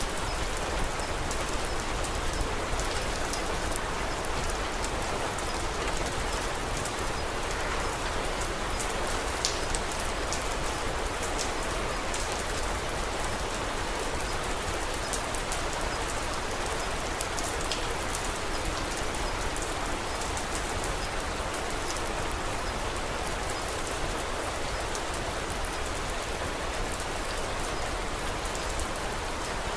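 Steady rain pattering, with scattered small crackles and pops of a wood fire.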